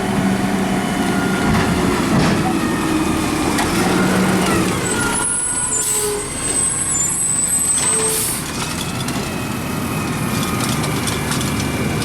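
Garbage truck running, its engine pitch rising and falling, with two short air hisses in the middle and a thin high squeal between them.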